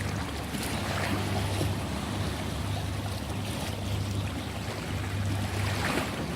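Ocean waves washing and breaking, with brighter surges about a second in and again near the end, over a steady low hum.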